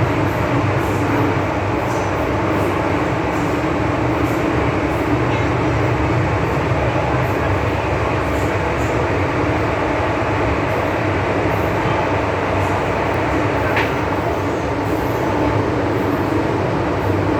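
Hong Kong MTR M-Train electric multiple unit running between stations, heard from inside the carriage as a steady rumble and hiss of wheels on rail and traction equipment. There is one brief high squeak about fourteen seconds in.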